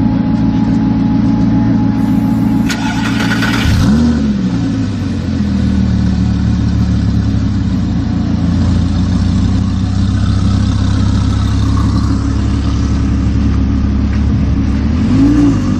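Supercar engine sound with a running engine throughout. About three seconds in comes a brief burst of noise, then a start-up flare about four seconds in: the revs rise sharply and fall back into a steady high idle. A short rev blip follows near the end.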